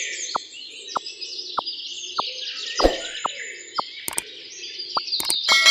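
Many small birds chirping and twittering together. A short falling blip repeats about one and a half times a second, with a single thud about halfway through and a couple of sharp clicks near the end.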